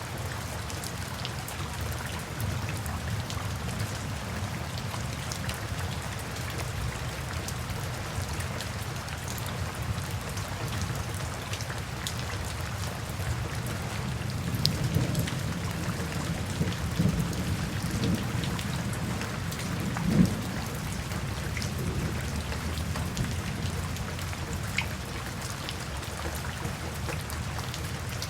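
Steady rain falling, a continuous hiss with scattered drop ticks. A low rumble swells up past the middle and is loudest about two-thirds of the way in.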